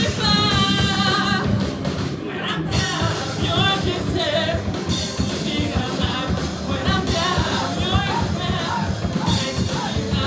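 Rock band playing live, with a singer's voice over the drum kit and the band.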